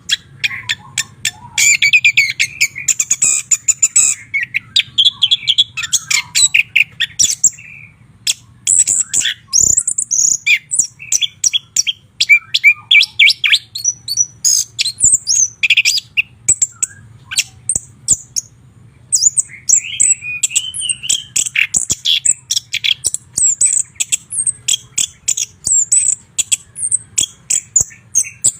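White-rumped shama singing a fast, varied song of whistles, trills and sharp clicking notes, with two brief pauses, about a third of the way in and again about two-thirds in. A faint steady low hum lies underneath.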